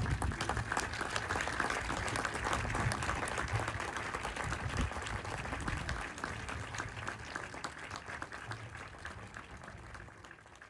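A crowd applauding: dense clapping that starts suddenly and fades away over the last few seconds.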